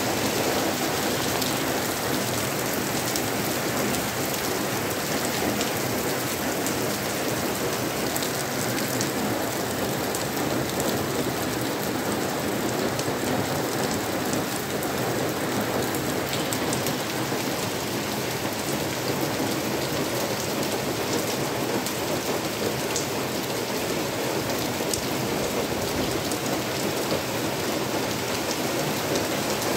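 Heavy rain falling steadily on wet paving and plants: a dense, even hiss with many small drop impacts.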